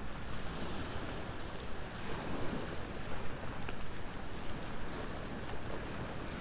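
Sea waves washing onto the shore in a steady rush that swells and eases, with a wood fire crackling in small scattered pops.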